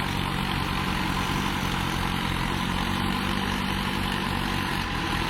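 Tractor's diesel engine running steadily at an even pitch.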